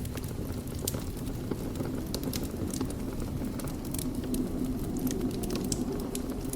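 Fire burning in a fireplace: a steady low rumble of flames with irregular crackles and pops throughout.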